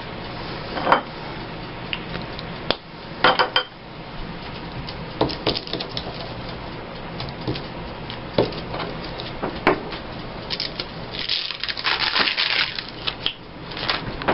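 Scattered clicks, taps and knocks of craft supplies being handled on a tabletop, with a denser flurry of handling noise about two-thirds of the way through, over a faint steady hum.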